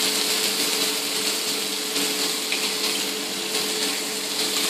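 Onion, garlic and ginger sizzling in hot oil in a wok over a gas burner, under a steady mechanical hum.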